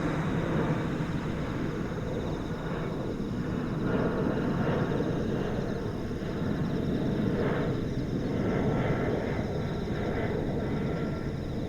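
Boeing 767 jet airliner flying over, its engines giving a steady deep rumble that swells and eases slightly, with a faint thin tone in the second half.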